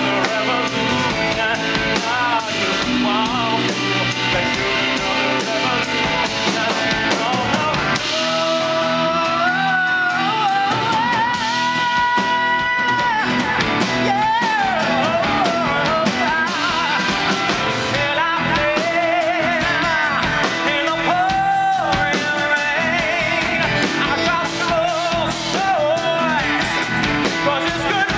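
A singer performing a rock song live over a band with electric guitar and drum kit, the voice sliding and wavering through long held notes.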